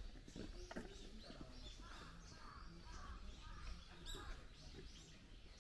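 Birds calling outdoors: a run of short, repeated calls, with a low rumble underneath and a brief sharp click about four seconds in.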